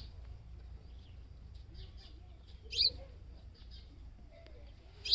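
House sparrow chirping: short, sharp single chirps, with a loud one about three seconds in and another at the end, and fainter chirps in between.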